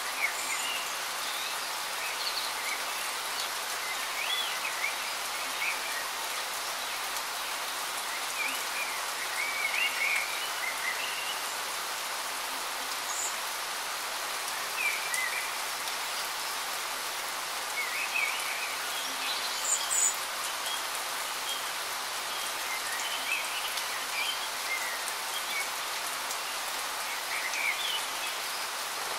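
Steady rain falling on a surface, with short bird chirps scattered through it.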